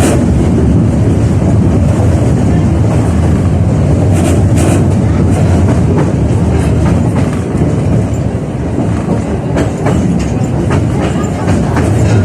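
71-605A (KTM-5A) tram running along the track, a steady rumble with the wheels clicking over rail joints. It grows a little quieter for a few seconds past the middle.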